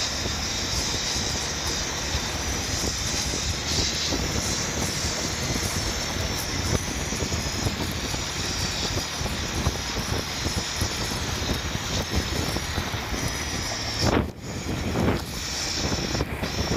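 Motorcycle engine running at cruising speed, with wind noise on the microphone, a steady drone that dips briefly about fourteen seconds in.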